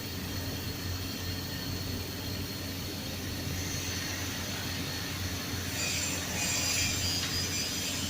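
Electric arc welding a vertical-up fillet weld: a steady crackling hiss over a constant electrical hum, growing a little louder and brighter about six seconds in.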